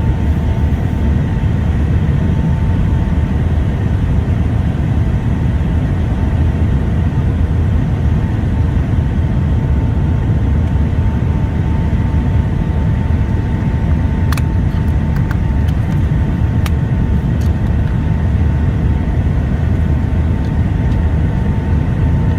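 Steady cabin noise of a Boeing 757-200 airliner: a low rumble of engines and airflow with a steady whine on top. A few faint clicks come about two thirds of the way through.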